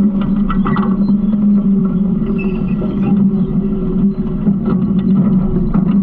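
Garbage truck engine running steadily, a constant low drone, with scattered light knocks and rattles over it.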